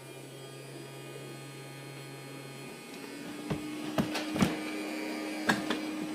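Vacuum cleaners, a Henry HVR 200 and a Dyson, running with a steady electric motor hum that gets louder and steps up to a higher pitch about three seconds in. Several sharp knocks come in the second half.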